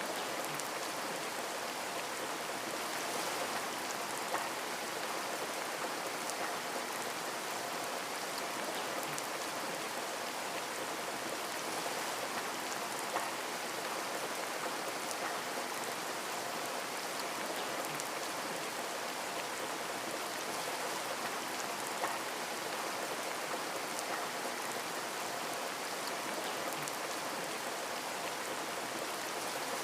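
Steady rain on a window, an even hiss with scattered drop ticks and an occasional louder drip.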